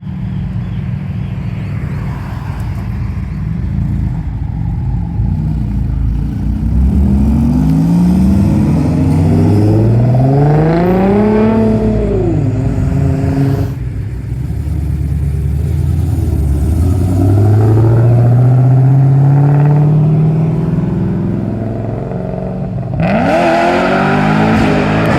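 Cars pulling away one after another, their engines revving and accelerating hard. One revs up and drops back about halfway, another climbs steadily in pitch for several seconds, and a louder, sharper rev comes near the end.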